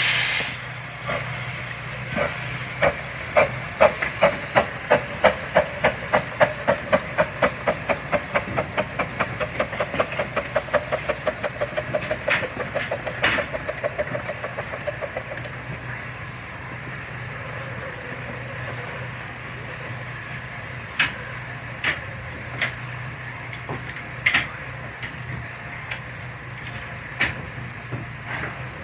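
Miniature steam locomotive pulling away with its exhaust beats quickening from about two to five a second, then fading out about halfway through. A few sharp metallic clicks follow near the end.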